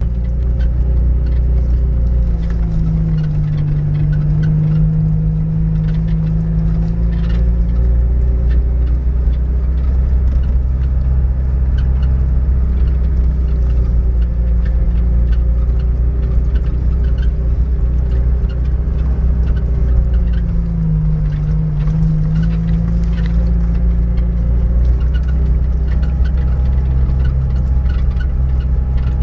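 Niva 4x4's engine running steadily under load as it drives up a rough dirt track, its note rising and falling a few seconds in and again about two-thirds of the way through. Many short knocks and rattles come over the engine, typical of the body and suspension jolting on the uneven ground.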